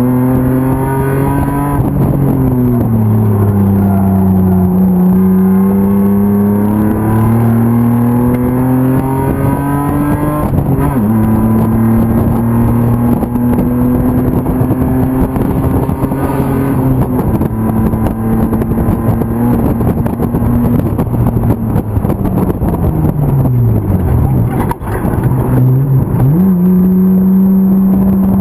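BMW M50 straight-six race car engine under load, its pitch climbing and dropping with throttle and gear changes. Near the end the revs fall away steeply for a few seconds, then snap back up as it pulls again.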